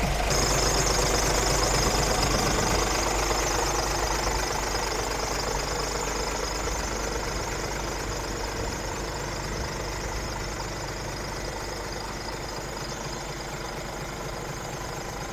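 Scania R500 truck's V8 diesel engine running steadily, with a hiss over it for the first few seconds; the sound slowly grows fainter.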